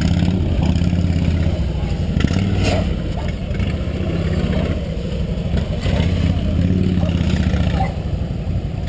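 Police motorcycle engine running at low speed through tight turns, revving up and easing off again and again with clutch work in the friction zone.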